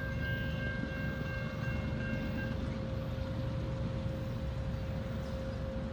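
Freight train rumbling as it moves away from a grade crossing, with the crossing's warning bell ringing. The higher part of the ringing stops about two and a half seconds in, while a steady lower tone carries on.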